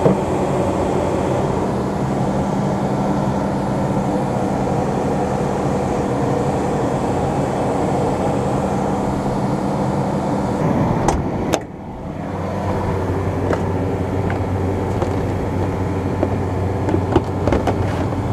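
Farm machinery diesel engine running steadily. About eleven seconds in there are a few sharp knocks, after which the sound dips and settles into a lower, steadier hum.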